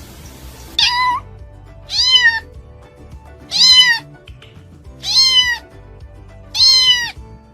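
A cat meowing five times, loud drawn-out meows about every one and a half seconds, over faint background music.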